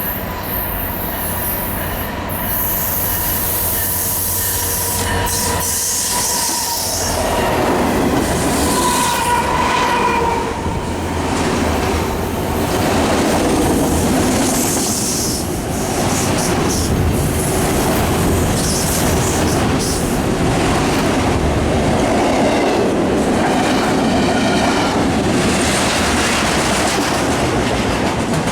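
A train passing close by on the main line. A low rumble gives way, about seven seconds in, to the loud rush and clatter of steel wheels over the rails, with a brief wheel squeal a few seconds later.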